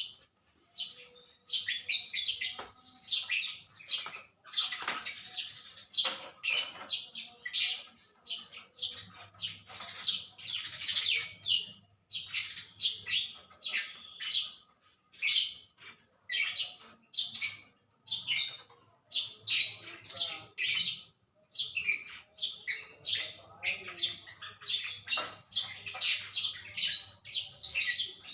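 Small birds chirping again and again in short, high calls, several a second, with brief pauses.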